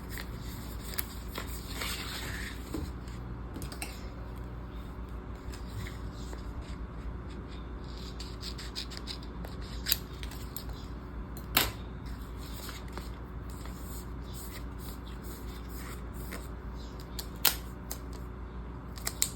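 Small scissors snipping PET planner tape, with paper and tape rustling as it is handled and a few sharper clicks, over a steady low hum.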